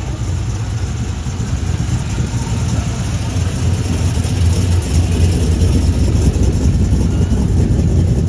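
Car engine running at idle, low-pitched and steady, getting louder from about four seconds in.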